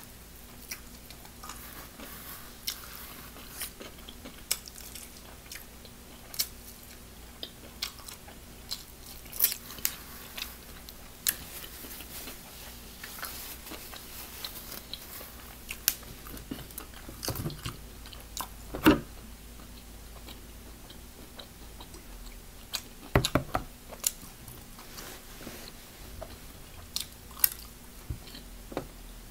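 Biting into and chewing crispy fried chicken wings: irregular crunches and short clicks at uneven intervals, a few louder than the rest.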